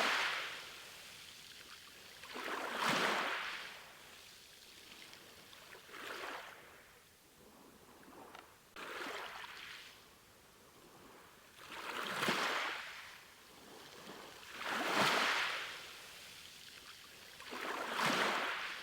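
Sea waves washing in, about one every three seconds, each swelling up and falling away.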